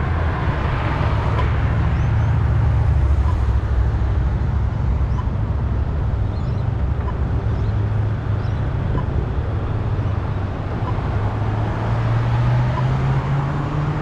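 Road traffic running past with a steady low rumble, heard from a bicycle riding along the road.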